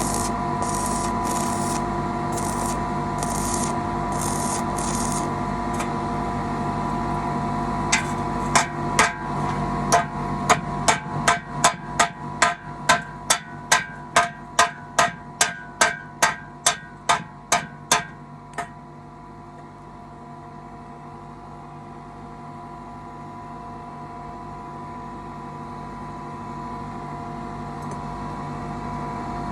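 A hammer striking metal about twenty times, roughly twice a second, over a steady electrical hum. Before the strikes, short hissing pulses repeat at about the same rate.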